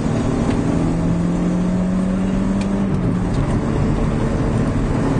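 Peugeot rally car's engine heard from inside the cabin, running at steady revs along a straight dirt track; its pitch steps down a little about three seconds in. A constant haze of road noise sits underneath.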